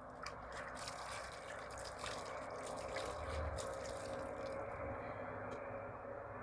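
Water dripping and trickling, with a few light clicks in the first second.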